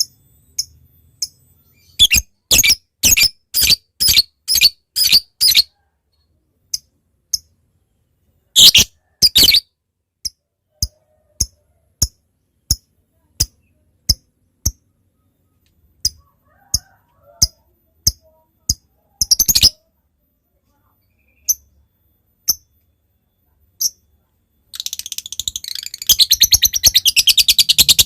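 Lovebird calling: sharp single chirps at irregular spacing with runs of louder, quicker chirps, then about 25 seconds in a long, fast chattering trill that runs on. This is the 'ngetik' ticking that leads into the 'ngekek' trill used to coax other lovebirds to sing.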